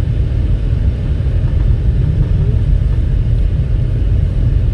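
Steady low rumble of tyre and engine noise inside a 2019 Toyota RAV4's cabin while it drives slowly on a snow-covered road.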